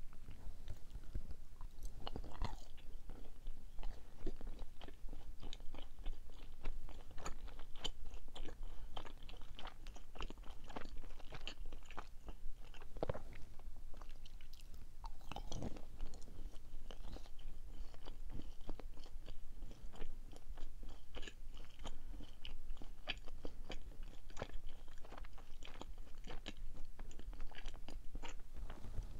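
Close-miked chewing of chocolate-coated sweets: many small crisp crunches and mouth clicks as the chocolate shell breaks up, going on throughout.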